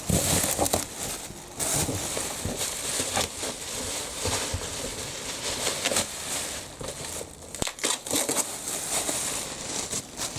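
Black plastic bin bag crinkling and crackling irregularly as it is pulled off and unwrapped from a parcel by hand.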